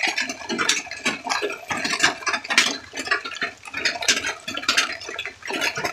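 Heavy rain falling: a dense, irregular spatter of separate drop hits on leaves and nearby surfaces.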